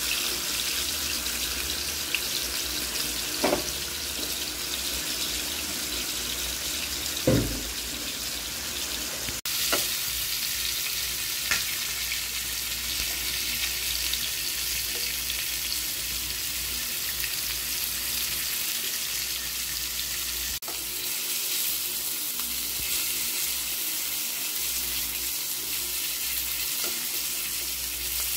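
Quail pieces frying in hot oil, a steady sizzle, with a few short knocks in the first half.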